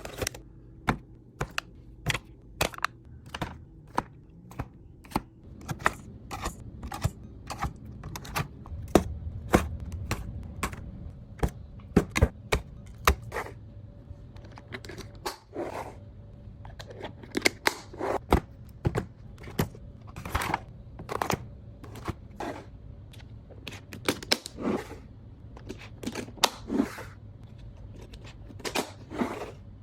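Irregular clicks, taps and light knocks of food containers and packaging being handled and set down, sometimes several a second, over a low steady hum.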